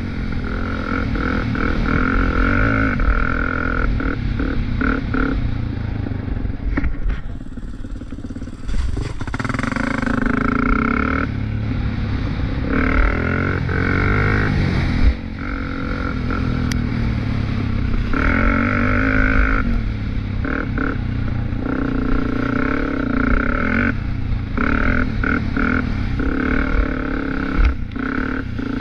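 Small off-road vehicle engine being ridden hard, revving up and down through the throttle, easing off briefly about seven to nine seconds in before climbing again.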